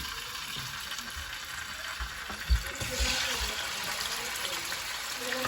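Hot oil sizzling in a kadai, a steady hiss. About halfway through come a few low knocks, one sharp, and the sizzle briefly flares louder.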